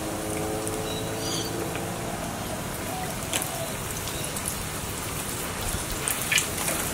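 A crumbed catfish fillet deep-frying in a pan of hot oil, sizzling steadily with scattered crackles.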